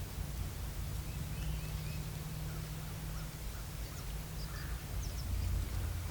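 Soft, scattered turkey clucks and yelps with small bird chirps, over a steady low rumble of wind on the microphone.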